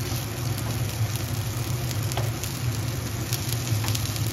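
Shami kababs sizzling and crackling in shallow oil on a tawa, with a metal spatula tapping and scraping on the griddle as they are turned, over a steady low hum.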